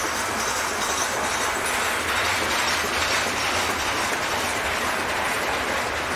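Covered hopper cars of a long freight train rolling past, a steady rush and rumble of steel wheels on the rails.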